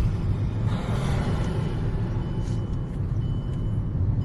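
A motorcycle engine running steadily under way, with a low rumble of engine, wind and road noise. A louder rush of noise comes about a second in.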